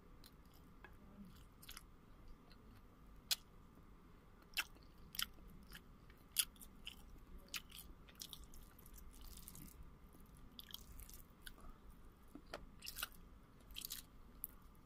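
Faint chewing of roast chicken and rice, with many short sharp clicks scattered through it.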